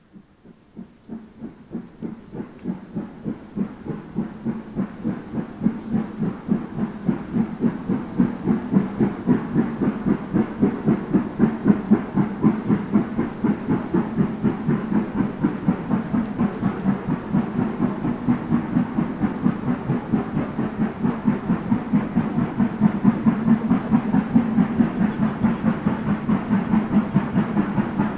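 Steam locomotive working under steam, its exhaust beating in a steady rhythm of about three chuffs a second, growing louder over the first ten seconds and then holding.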